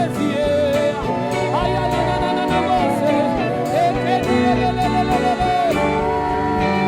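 Gospel worship music: a solo voice singing a wavering, melismatic line over sustained keyboard-like chords and a bass beat.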